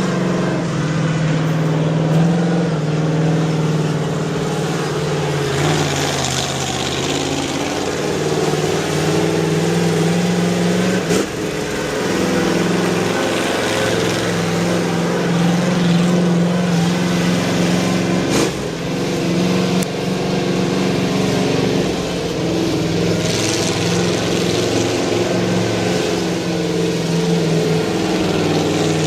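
An engine running at a steady speed, with a couple of brief knocks.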